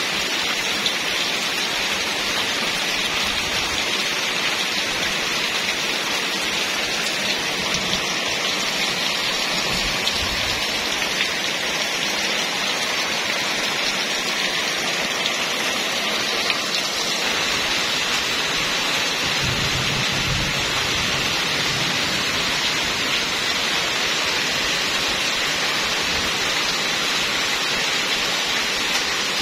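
Steady heavy rain falling, a continuous even hiss of drops on the ground and surfaces.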